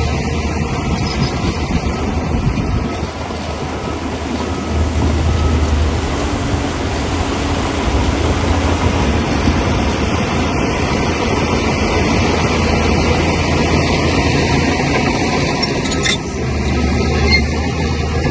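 Crawler bulldozer working: the diesel engine runs steadily under load while the steel tracks clatter and grind.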